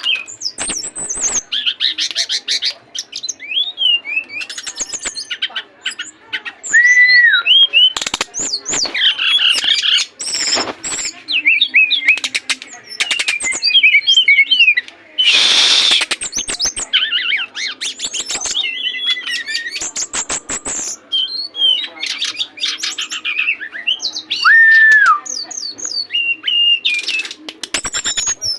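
A songbird singing hard in a long, varied outpouring of rapid chirps, stuttering trills and short whistled glides. There is a harsh, noisy burst about halfway through.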